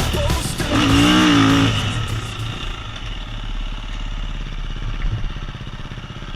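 Dirt bike engine revving up and down briefly, then easing off: the engine pulses keep going but grow steadily quieter as the bike slows.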